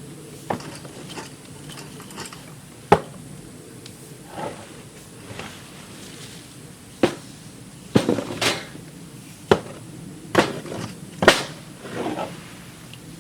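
A series of irregular sharp knocks and clinks of hard objects being handled and set down, sparse at first and coming more often in the second half.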